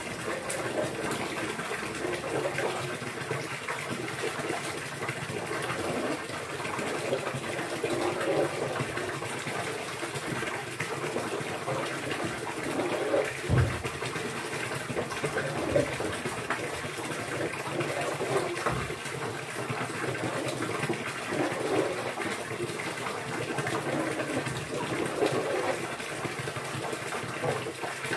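Steady running, splashing water, with two brief low thuds partway through.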